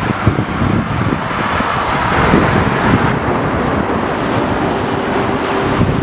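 Jet airliner engine noise, a loud steady rushing rumble, with wind buffeting the microphone.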